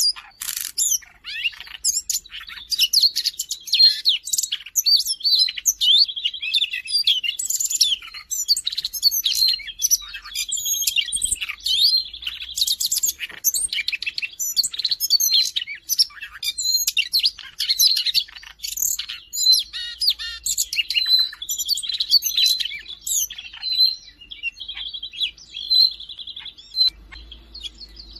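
Siberian rubythroat singing a long, varied, rapid song of chirps, whistles and trills, with a recurring buzzy trill, almost without a break.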